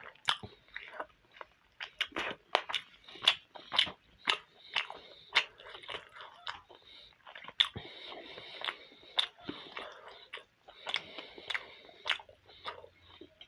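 Close-up chewing of steamed momo dumplings: wet mouth clicks and smacks, roughly two a second.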